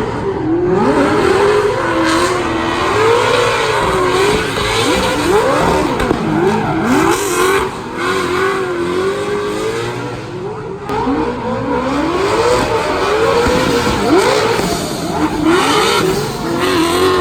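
Drift car engine revving hard and rising and falling in pitch again and again, over a steady rush of tyre noise as the car slides.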